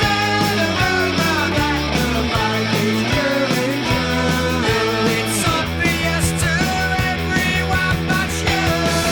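Punk rock band playing: distorted electric guitars over bass and drums, with no vocals heard.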